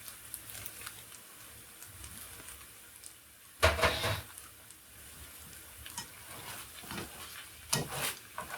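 Beef lo mein sizzling faintly in a nonstick skillet while a utensil stirs and scrapes it around the pan, with one loud clatter against the pan about halfway through and lighter knocks after.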